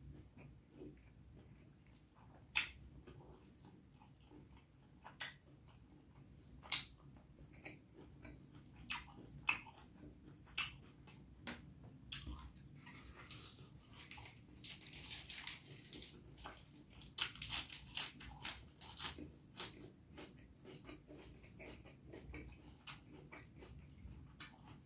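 Close-miked chewing of a mouthful of beef curry and rice, with scattered sharp mouth clicks. The clicks come thicker and busier in the middle stretch, then settle back to quieter chewing near the end.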